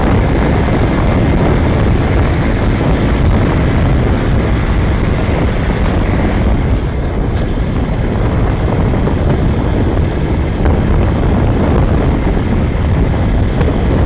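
Motorcycle under way: a loud, steady rush of engine and wind noise, heaviest in the low end.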